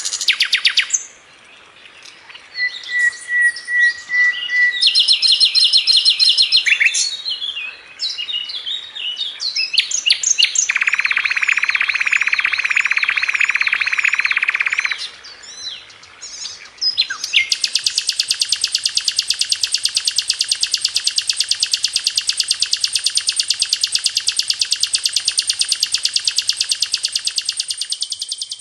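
Sikatan londo (brown-chested jungle flycatcher) singing vigorously: a varied run of short high whistled phrases and quick trills, then a dense buzzing trill for about four seconds, and from about the middle on a long, very fast and even trill that stops shortly before the end.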